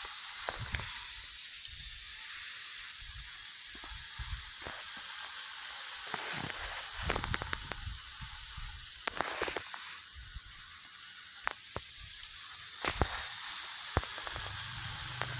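Airbus A320 cockpit noise: a steady hiss of air, broken by scattered sharp clicks and knocks, with a low hum coming in near the end.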